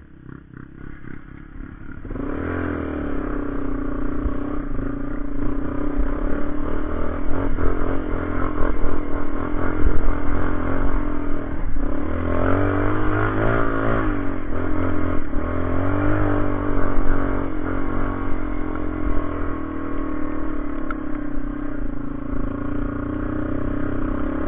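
Motorcycle engine running under load. It comes in loud about two seconds in, and its pitch rises and falls with the throttle.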